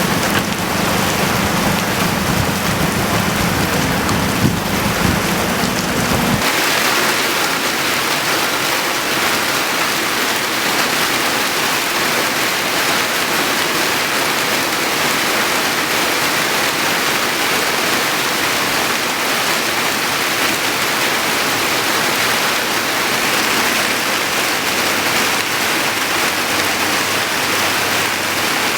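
Heavy rain falling in a steady hiss, from the storm that also brought hail. A low hum sits under it for about the first six seconds, then stops abruptly.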